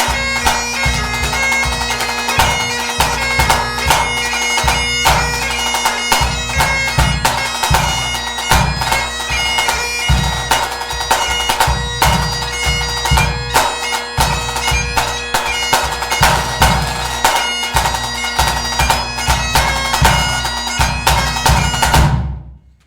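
Highland bagpipe playing a tune over its steady drones, with a bass drum beating along in regular low strokes. The pipe and drum stop together sharply near the end, closing the tune.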